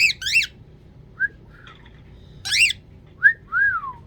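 Baby cockatiel calling: a series of about six short, high whistled chirps, each rising and falling in pitch, the last one longer and sliding down.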